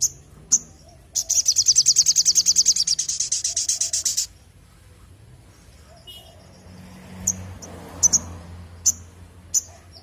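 Little spiderhunter (sogok ontong) singing: two sharp high calls, then a loud, rapid high trill of about nine notes a second lasting about three seconds. After a pause comes a string of separate sharp chips near the end.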